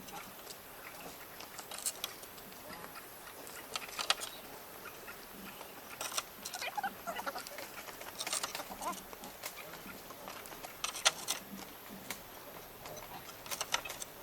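Sharp knocks and clicks in short clusters every two seconds or so, with a few brief chirping calls between them near the middle.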